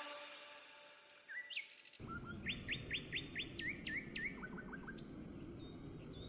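A bird chirping: a quick run of short, sharply rising chirps, then a few lower ones, over a faint steady background hiss.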